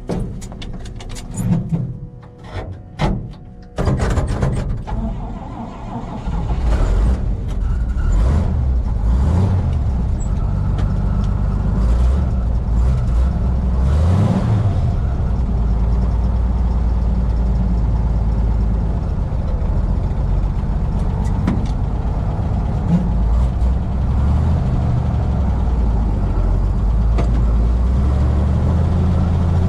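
A few clicks and knocks, then about four seconds in the engine of a 1959 International B-160 truck starts and runs. It revs up and down a few times, then settles into a steady low run.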